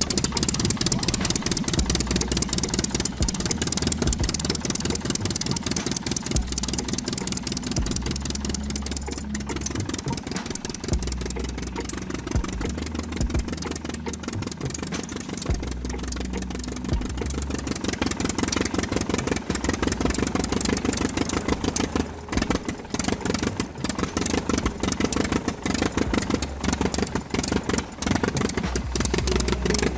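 The small motor of a DIY mini tractor running steadily with a fast, rattling beat, its loudness wavering now and then.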